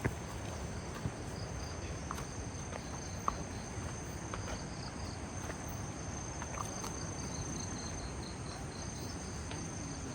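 Evening insects calling: a steady high-pitched drone with a quicker pulsing chirp beneath it, over a low, even background rumble. A few faint clicks sound about a second in and again around three seconds.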